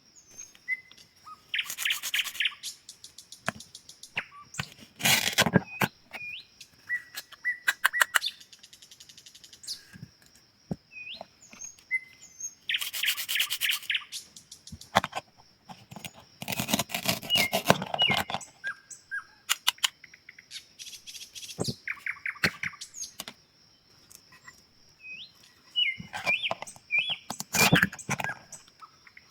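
Toys being cut: about half a dozen bursts of dense crackling, rasping noise, each a second or two long. Short birds' chirps are heard between them.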